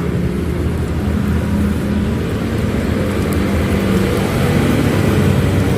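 Road traffic close by: a steady rumble of vehicle engines passing on the road.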